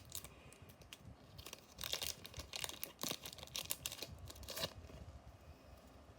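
Digimon card booster pack wrapper being torn open and crinkled by hand, a run of sharp crackles that is busiest from about one and a half to five seconds in, then dies down.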